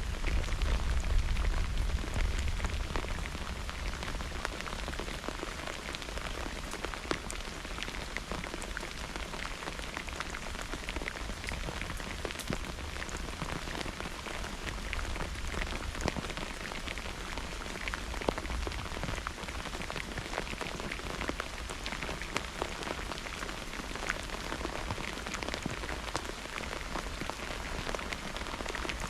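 Steady rain falling and pattering on surfaces, with a low rumble of thunder fading away over the first few seconds.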